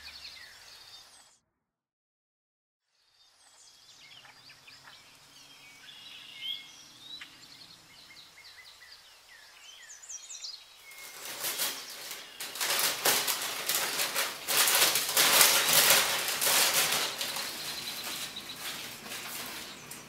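Birds chirping. About halfway in, loud crinkling and rustling of brown kraft paper wrapped around a bouquet of roses takes over as it is handled.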